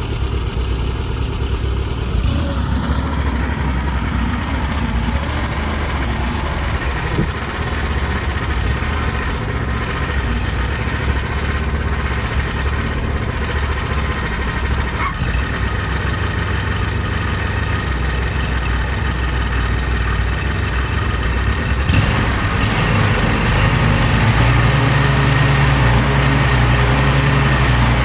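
Engine of a piece of yard equipment running steadily. About 22 seconds in there is a sharp click, after which the engine note is a little louder and higher.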